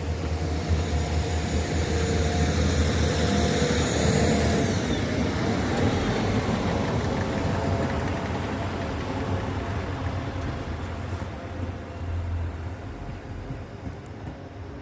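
A train moving through a station: a rumble with a steady whine, fading gradually over the last few seconds.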